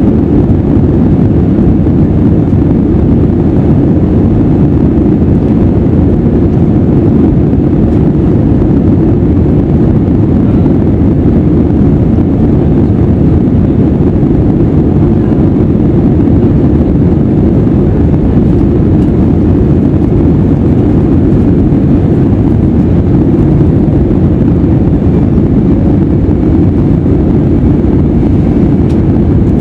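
Steady low rumble of an Airbus A320's jet engines and airflow heard inside the cabin during the takeoff climb, loud and unchanging throughout.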